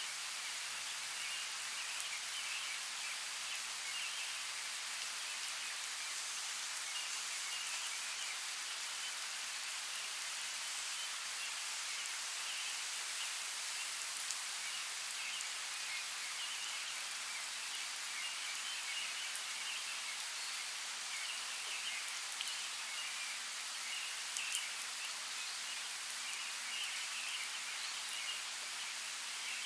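Steady rain falling, an even hiss with now and then a single louder drop striking close by.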